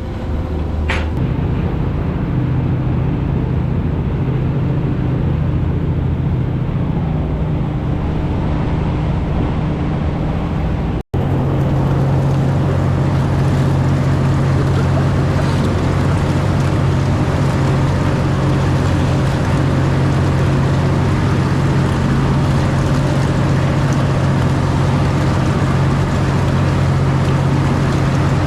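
Steady low drone of a prawn trawler's engine and machinery, running without change. It breaks off for an instant about eleven seconds in and resumes with a slightly different, steadier hum.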